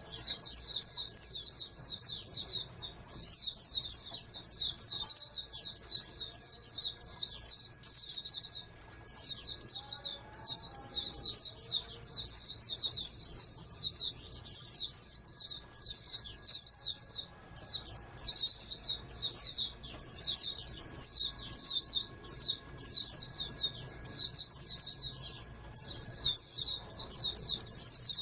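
Pleci (white-eye) singing a long, fast song of high chirps in quick succession, broken only by a few brief pauses.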